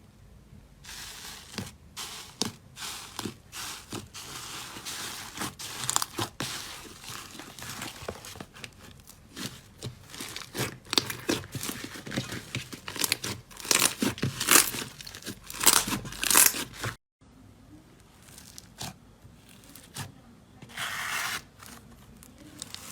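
Slime being squeezed, stretched and pressed by hand, giving irregular crackling and popping. The sound breaks off suddenly a little after two-thirds of the way through and resumes more softly, with one louder burst near the end.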